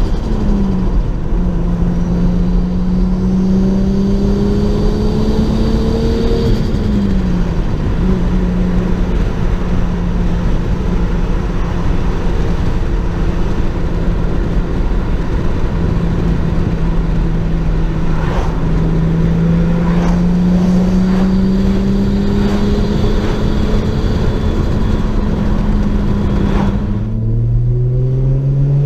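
Turbocharged Lexus IS200's 2.0-litre straight-six engine running under way, its pitch climbing slowly. It drops back about seven seconds in, holds steady through a long stretch of cruising, then falls sharply near the end and climbs again as the car pulls away.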